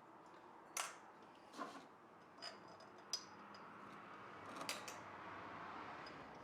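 Light metallic clinks and taps from the engine's valve-train parts, push rods among them, being pulled out and set down. About five scattered knocks, a couple of them with a short metallic ring.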